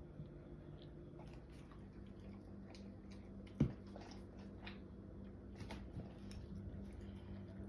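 Dalmatian puppy mouthing and chewing a piece of mandarin: faint scattered wet clicks and smacks, with one sharper click about three and a half seconds in.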